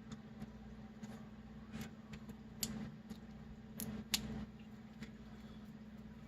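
Light clicks and scratchy rustles of dried liquid masking being picked and peeled off a plastic scale model, a few in the middle and a sharper pair near two-thirds in, over a steady low hum.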